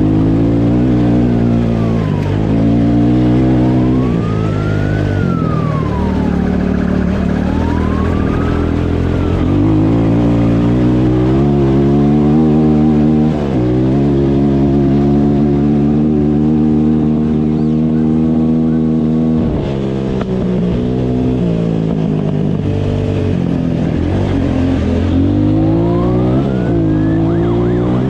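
Motorcycle engine accelerating hard through the gears, its pitch climbing and then dropping sharply at each upshift. Over it, a police siren wails with rising and falling sweeps near the start and again near the end.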